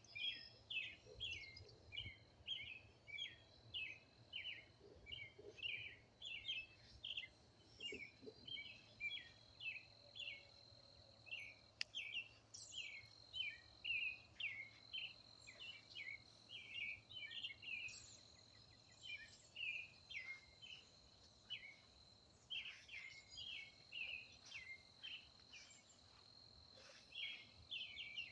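Birds chirping over and over, a couple of short calls a second, faint, over a steady high-pitched tone.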